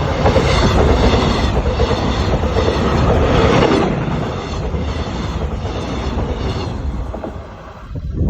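Train running past on the rails, a loud rumble of wheels and cars that is strongest for the first few seconds, then fades and drops away near the end.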